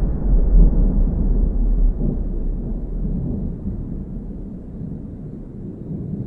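A deep, noisy rumble with no clear tone, fading away gradually.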